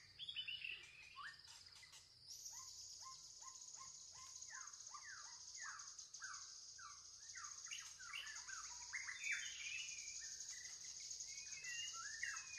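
Faint birdsong: a long run of quick whistled notes, each sliding downward, repeating about twice a second and crowding together near the end, over a steady high hiss.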